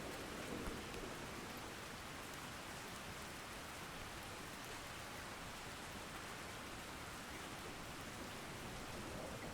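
Steady rain falling, an even hiss with faint patter of individual drops.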